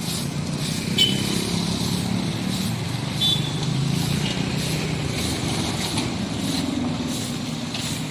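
Motor vehicle engines running steadily at the roadside, with two short high-pitched sounds about one second and about three seconds in.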